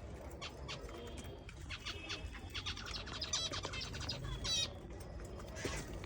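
Small aviary birds chirping, with many short, high calls and a quick trill about four and a half seconds in.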